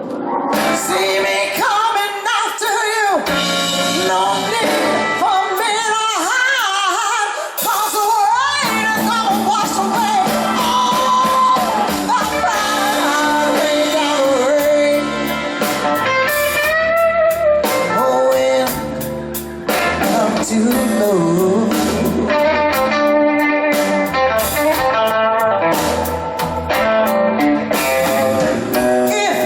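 Live blues band playing: a woman singing over guitar, with the bass and the rest of the band coming in about eight seconds in.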